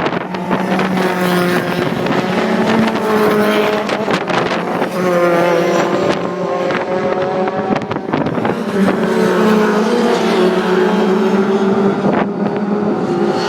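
Sports 2000 racing cars' engines running hard on track, a continuous loud engine note whose pitch rises and falls as cars pass.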